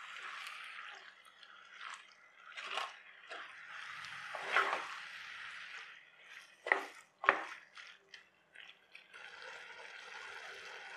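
Squid frying in a wet masala while being stirred with a spatula: a steady sizzle with wet squelching, broken by spatula scrapes and knocks against the pot, the two sharpest about seven seconds in.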